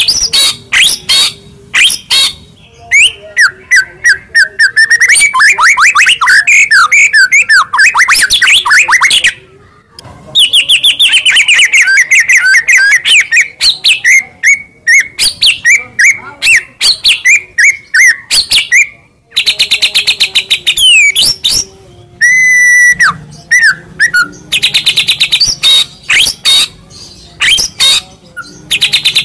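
White-rumped shama (murai batu) in loud, continuous song: long runs of rapid chipping notes and fast trills with sweeping whistles, broken by two short pauses, and a clear held whistle a little past two thirds of the way through.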